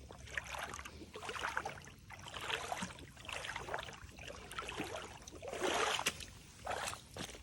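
Footsteps wading through shallow floodwater on a muddy trail, each step a short slosh and splash, roughly one step every second or less.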